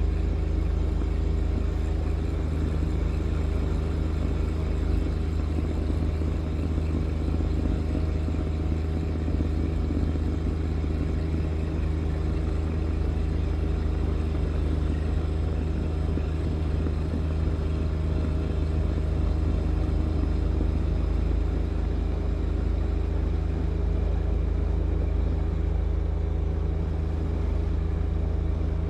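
John Deere 1025R compact tractor's three-cylinder diesel engine running steadily at constant speed, a continuous low engine drone.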